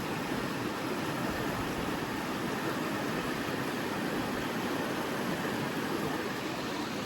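Steady rushing of a flowing creek, an even, unbroken water noise.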